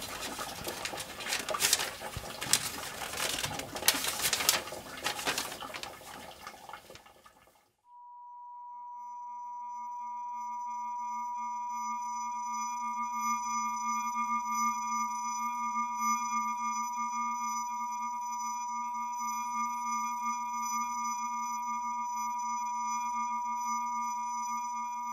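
Rustling and scattered clicks, cut off abruptly about eight seconds in. After a moment of silence a steady, high, unwavering electronic tone sets in, with a lower hum beneath it, and holds to the end.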